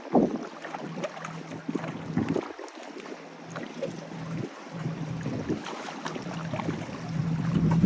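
Wind buffeting the microphone over waves washing on the jetty, with a steady low hum that comes and goes from about a second in.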